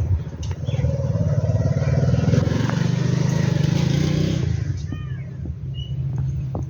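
A motor vehicle engine runs close by, loud and low for about four seconds, then fades. About five seconds in, a bird gives one short harsh call, and a brief high chirp follows.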